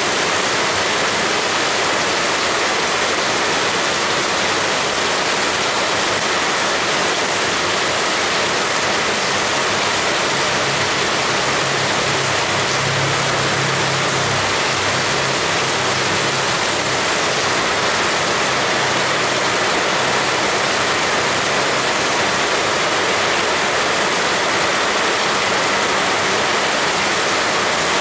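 Heavy rain falling steadily, a dense even hiss with no let-up. A faint low hum swells and fades in the middle.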